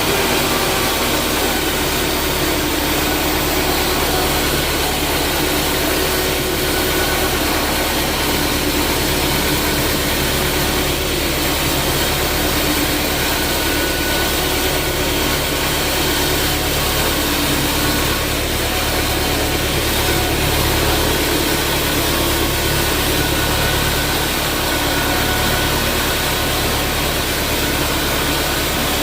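Sawmill machinery running steadily, a constant engine-like drone and hum with no pauses or changes in pace.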